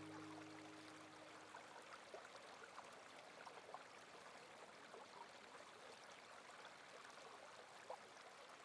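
Faint running water, a stream trickling with small irregular plinks. The last held notes of music fade away in the first second.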